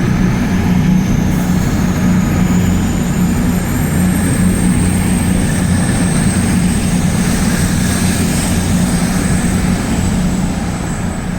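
A train's engine running with a steady drone and a thin high whine as it moves through the station, growing quieter near the end.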